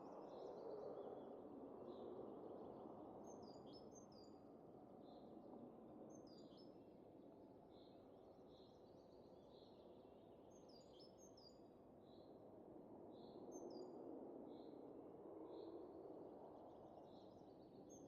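Soft wind that swells near the start and again about two thirds through, with small birds calling over it: a short chirp repeated a little more than once a second, and every few seconds a quick cluster of higher, falling chirps.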